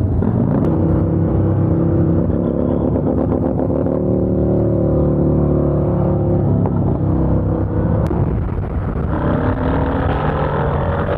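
Motorcycle engine running while riding, over a low wind rumble; its pitch eases off, then rises as the bike accelerates near the end.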